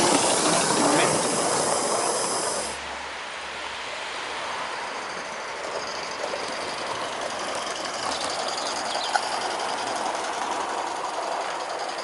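Steam locomotive hissing steam, loud for the first few seconds and then dropping suddenly to a quieter, steady hiss with a few faint ticks.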